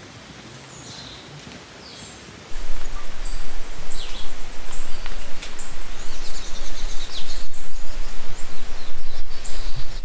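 Birds calling with short, high whistles, several falling in pitch, over a steady outdoor rustle that becomes much louder about two and a half seconds in.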